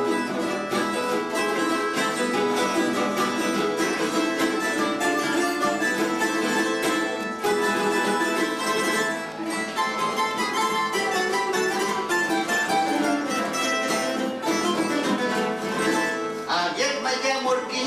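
Plucked-string trio of bandurria, laúd and guitar playing a Cádiz carnival tango: a steady run of picked melody notes over strummed chords. It turns brighter and fuller near the end.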